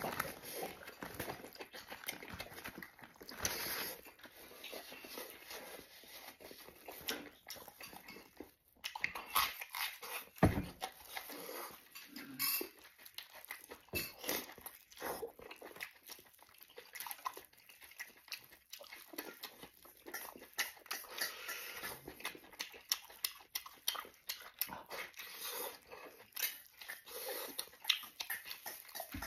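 Close eating sounds of stewed lamb leg: chewing and smacking on the meat and tearing it from the bone with plastic-gloved hands, a steady run of irregular wet smacks and clicks.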